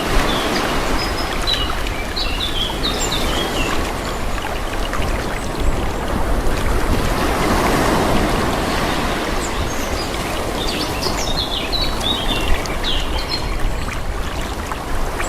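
Calm sea waves washing gently, the hiss of water swelling and easing, with two short spells of high bird chirping over it.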